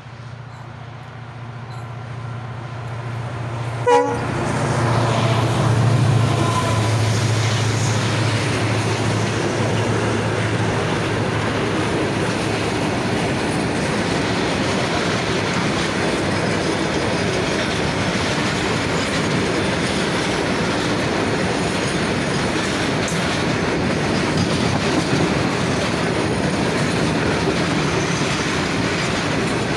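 WDG4 diesel locomotive, with a 16-cylinder two-stroke EMD engine, running loud as it approaches and passes close by, with a very short horn toot about four seconds in. Its engine hum then fades, and the freight wagons roll past with a steady rumble and clickety-clack of wheels on the rails.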